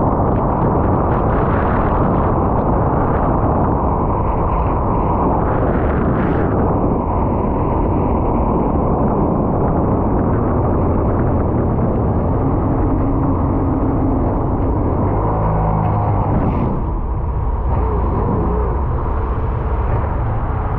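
Sea-Doo personal watercraft engine running steadily at speed, with wind and water rushing on the action camera's microphone. Brief splashes come at the start and about six seconds in, and the engine note drops about sixteen seconds in.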